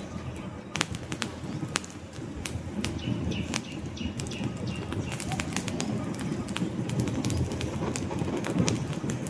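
Wood fire burning in a fireplace: a low steady rush of flame with frequent sharp crackles and pops from the logs.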